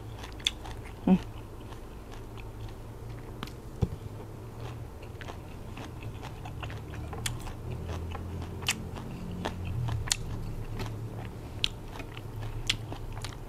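Close-miked chewing and crunching of a mouthful of spicy silkworm-pupae salad with sour mango, with many small crisp clicks scattered throughout over a low steady hum.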